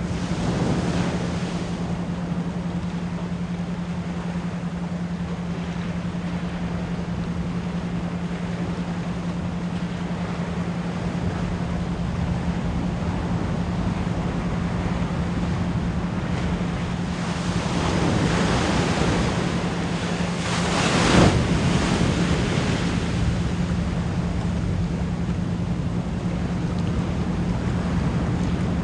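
Ocean waves washing in and out, with a steady low 174 Hz pure tone, pulsed as an isochronic tone, layered underneath. Louder waves swell up about 18 seconds in, and one breaks most strongly a few seconds later.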